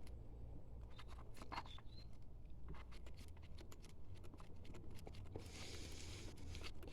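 Faint handling sounds: scattered light clicks and taps, with a soft rustle from about five and a half seconds in. A low steady hum runs underneath.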